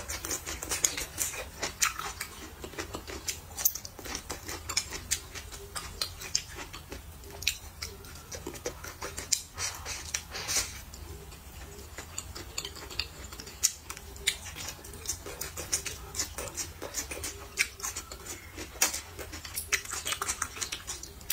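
Close-up eating sounds: wet chewing with many quick, irregular mouth clicks and smacks.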